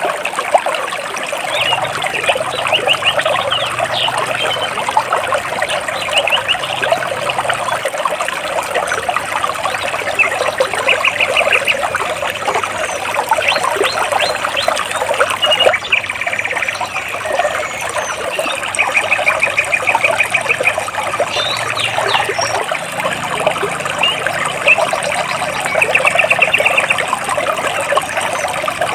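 Water running and splashing between large rocks in a steady, babbling stream. Over it, birds chirp in short, rapid trills that come every few seconds.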